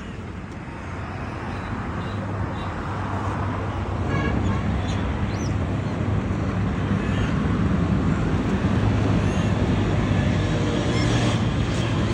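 Steady outdoor rumble of road traffic that grows louder over the first several seconds and then holds, with a few faint high chirps.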